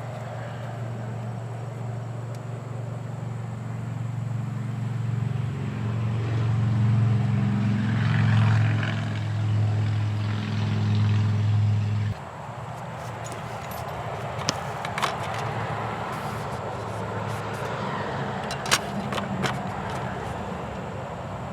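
A motor running steadily, growing louder, then cutting off abruptly about twelve seconds in; after that a quieter hiss with a few sharp clicks.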